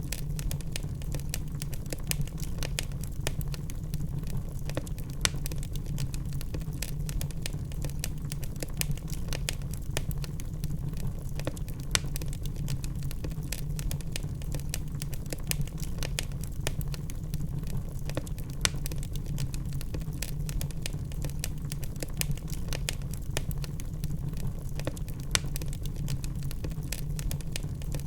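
Log fire burning in a fireplace: a steady low rumble of flames with frequent small crackles and a few sharper pops.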